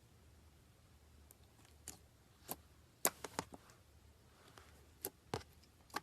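Slime being handled, giving a scatter of sharp clicks and pops that start about two seconds in, with a quick cluster around three seconds and a few more near the end.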